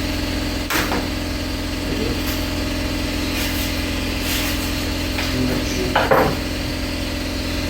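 A steady machine drone with a low hum. Two sharp knocks of something being handled stand out, one about a second in and a louder one about six seconds in.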